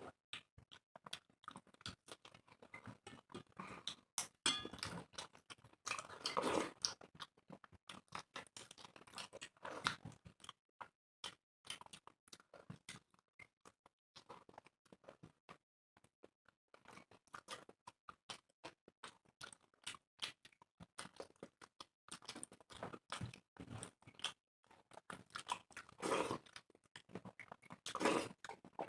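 Chewing and mouth noises of people eating rice and egg curry, with many short scattered clicks and a few louder stretches.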